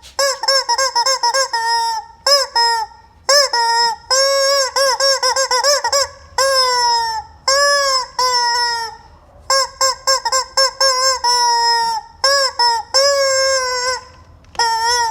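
Squeaky rubber chicken toy squawking over and over: runs of short, rapid squeaks alternate with longer held squawks that sag slightly in pitch.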